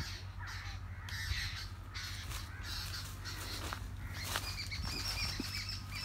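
Birds calling in the tree canopy: short, repeated arched calls in a bout about a second in and another from about four seconds in, over a steady low rumble.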